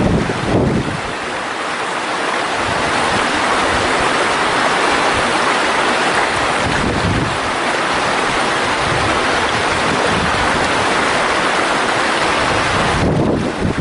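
Valley stream rushing steadily, with wind buffeting the microphone in the first second, briefly about halfway through, and again near the end.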